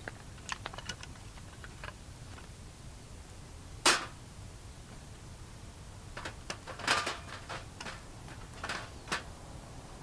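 Irregular sharp clicks and knocks: small ones in the first two seconds, one loud knock about four seconds in, a cluster around seven seconds, and two more near the end.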